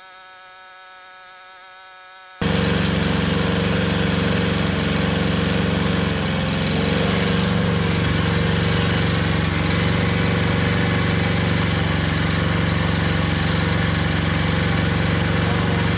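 Honda GCP160 overhead-cam single-cylinder lawnmower engine running steadily with ketchup in its crankcase in place of oil. It starts as a fainter steady buzzing hum, then about two and a half seconds in it becomes suddenly much louder and runs on evenly.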